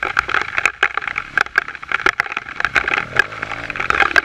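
Dense, irregular sharp cracks and clicks, like branches snapping and debris striking, over the steady noise of a trail motorcycle riding through wet woodland.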